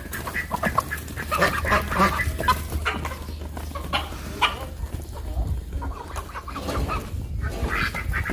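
Farmyard poultry calling, mainly chickens clucking in many short, overlapping calls, with a steady low rumble underneath.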